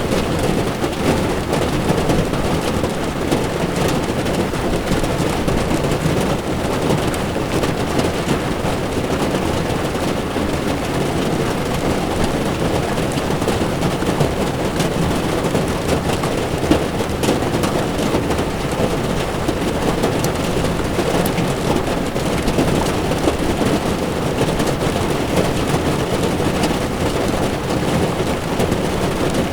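Heavy rain pattering steadily on a car's windshield and body, with the tyres hissing over the wet road.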